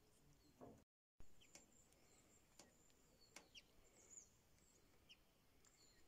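Faint birdsong: small birds chirping with short, high, thin notes scattered throughout, over a quiet outdoor hush. The sound cuts out completely for a moment about a second in.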